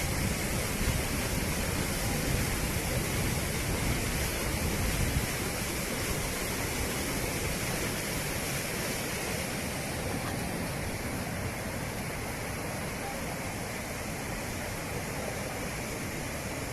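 Steady rushing of rainwater pouring into a desert sinkhole, with a heavier low rumble in the first few seconds, like wind on the microphone.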